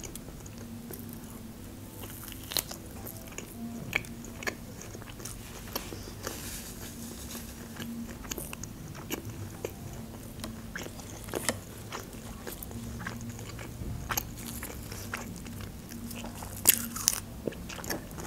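A person eating close to the microphone: chewing and biting a meat chop, with small crunches and wet mouth clicks scattered throughout. A sharper crunch stands out about three-quarters of the way through.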